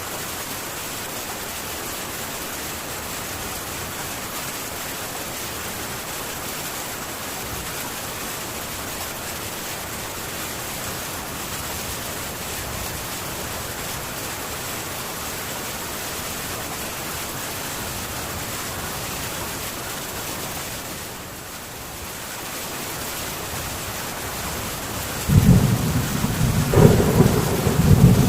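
Heavy rain falling steadily on a metal tin roof. Near the end, thunder breaks in suddenly, a loud low rumble that swells in waves over the rain.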